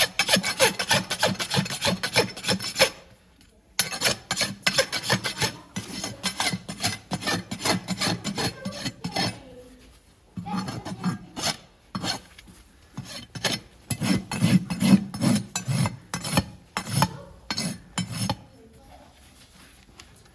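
A farrier's rasp filing a horse's hoof in quick repeated scraping strokes. The strokes come in several runs with short breaks and are quieter near the end.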